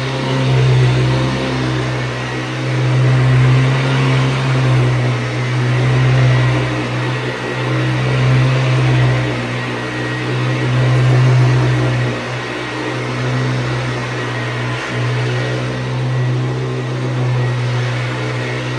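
1985 Hoover Decade 80 upright vacuum cleaner running, a steady motor hum and fan whine that swells and eases every few seconds.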